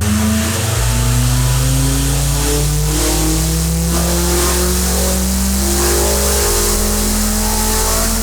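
Proton Satria's turbocharged 4G93 MIVEC engine revving under load on a dyno, its pitch climbing steadily for several seconds as it pulls.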